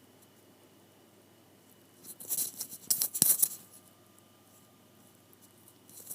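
Close-up crackling and rustling, a cluster of sharp clicks and rubs that starts about two seconds in and lasts about a second and a half, like something being handled right at the microphone, over quiet room tone with a faint steady high tone.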